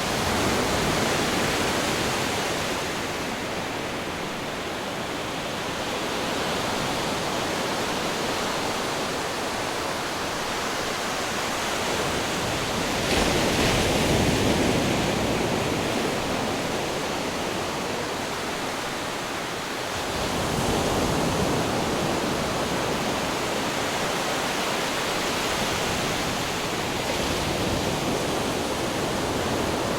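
Ocean surf breaking against rocks: a continuous rushing roar that swells with each wave, the strongest surge about halfway through and another about two-thirds in.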